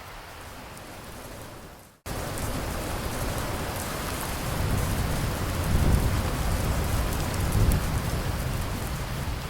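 Steady rain hiss that dips to silence about two seconds in and cuts straight back in louder, then a low rumble of thunder swells under the rain through the middle.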